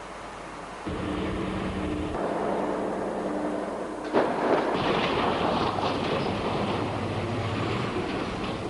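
Large mining haul truck's diesel engine running under load, starting up loud about a second in. About four seconds in there is a sharp bang, followed by a louder rough, grinding noise as the truck rolls over and crushes a light vehicle.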